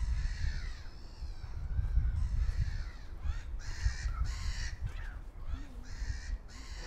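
A bird calling over and over, a dozen or so short calls in a row, over a steady low rumble.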